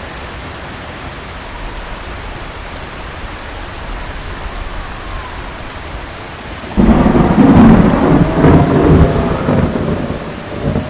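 Steady heavy rain, then about seven seconds in a sudden loud thunderclap that rumbles on for several seconds before fading.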